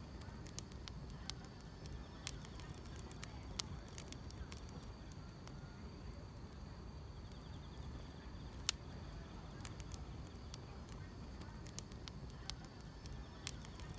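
Wood fire crackling: irregular sharp pops and snaps over a low steady rumble, the loudest pop about two-thirds of the way through. Faint grass insects trill steadily underneath.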